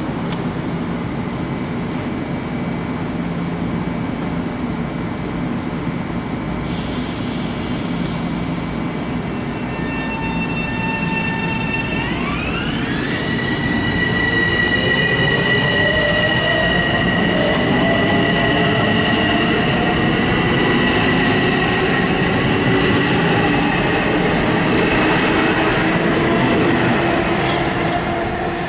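Long Island Rail Road electric train running through the station, with rumbling wheels and a high whine that steps up and then glides higher in pitch about twelve seconds in. It gets louder from about fourteen seconds in and eases off near the end.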